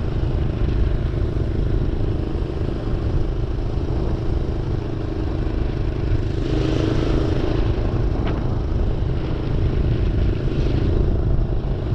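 Minibike's small engine running steadily while ridden, with the choke partly on to clear a clogged jet. It swells briefly about six seconds in, and there is a single click about eight seconds in.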